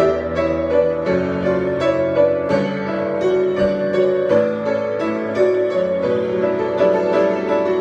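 Piano improvisation: a steady flow of notes over held low chords that change every second or two.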